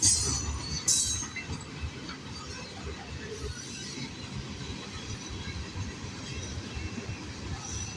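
Loaded freight cars of a manifest train rolling past on the rails with a steady low rumble. Right at the start and again about a second in, there are two short, sharp metallic wheel squeals.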